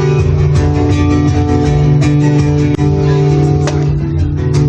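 Guitar playing live: strummed chords ringing out over a steady low bass, with no singing.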